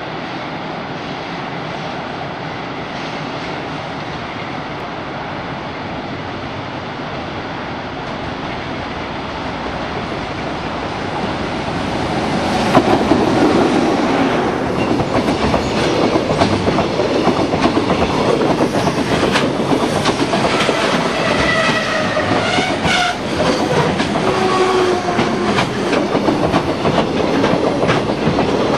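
A freight train on the track: its rumble grows louder about a third of the way in as the train comes close, then the wagons' wheels clatter quickly over the rail joints as it runs past, with a few short whining tones in the second half.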